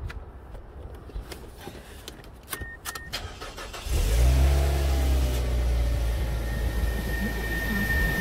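A few clicks of the key in the ignition, then about four seconds in the Mazda's engine starts and settles to a fast idle. A thin steady whistle from the newly fitted exhaust-pipe whistles comes in a couple of seconds after the start and grows louder near the end.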